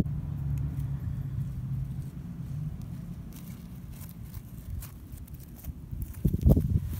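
A motor vehicle's engine hums steadily in the background, fading after about three seconds. Near the end, foam slime is pressed and pulled by hand, making louder squishy handling noises with small clicks.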